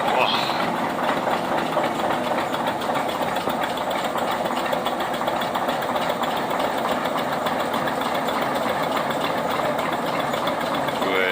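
Ruston & Hornsby 165DS diesel shunting locomotive's engine idling steadily with an even knocking beat. A brief high squeak sounds just after the start.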